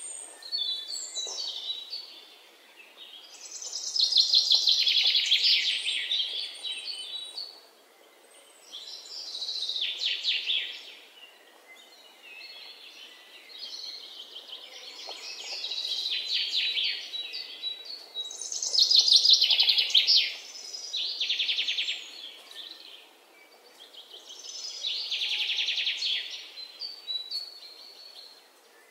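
Birdsong: short, high trilled phrases, each a second or two long, repeated every few seconds.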